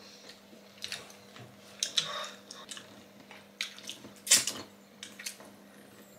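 Close-up eating sounds: chewing and wet lip smacks from people eating deep-fried pork belly (lechon kawali) by hand, a scatter of short clicks, the sharpest about four seconds in. A faint steady hum runs underneath.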